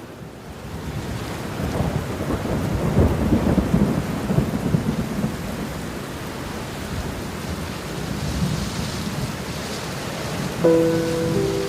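Steady rain with a long rumble of thunder that swells a couple of seconds in and fades over a few seconds. Near the end a few sustained notes of soft background music come in over the rain.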